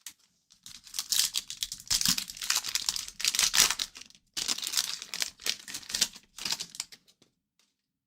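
Crinkling and tearing of a trading-card pack wrapper being ripped open and handled, in two spells of crackly rustling with a brief break about four seconds in.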